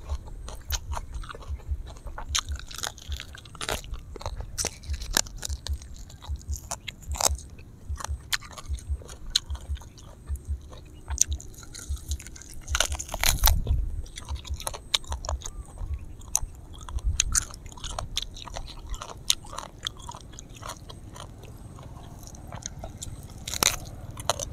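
Close-miked biting and chewing of grilled honey duck eaten by hand: irregular sharp clicks and smacks of mouth and meat, with a louder burst of bites about halfway through and another near the end.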